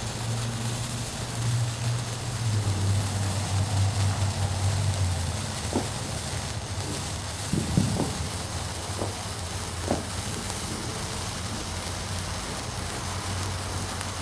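Backyard firework fountain hissing and spitting sparks, with a few sharp pops in the middle, over a low steady hum.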